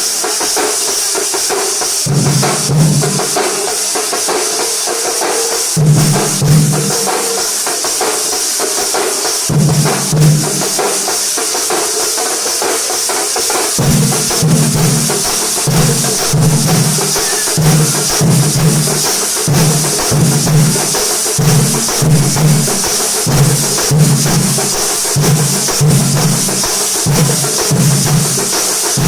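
A Kerala thambolam percussion band playing, with a constant high jingle of cymbals over deep drum strokes. The deep strokes come in scattered clusters at first, then settle into a steady beat of about two a second from about halfway.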